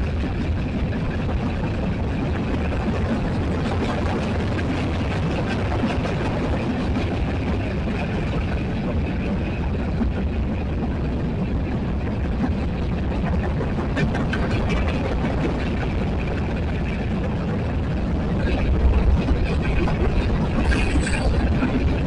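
Freight cars of a Union Pacific manifest train rolling past close by: a steady rumble of steel wheels on rail, with a few clicks, getting louder and deeper near the end.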